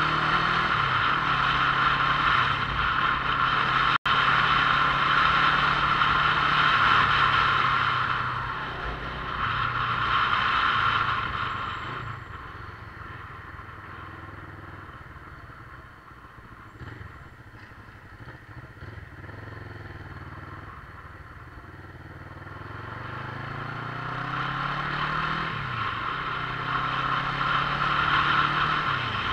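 Motorcycle engine heard on board while riding, its pitch climbing and then dropping as it shifts gear. It eases off for a while in the middle and pulls up again near the end.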